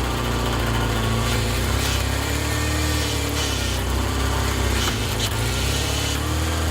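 Small engine running steadily, powering a DIY hydraulic wood splitter.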